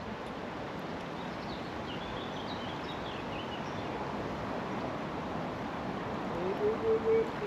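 Steady rush of river water, with a few faint high bird chirps in the first half.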